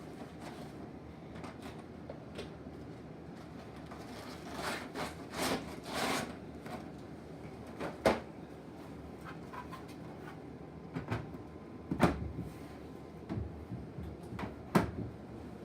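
Handling noise: rustling with a few sharp knocks or clicks of parts being moved, the loudest about halfway through, again a little later, and once more near the end.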